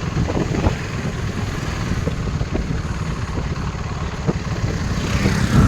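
KTM RC 390's single-cylinder engine running while riding, with wind noise on the microphone; it gets louder near the end.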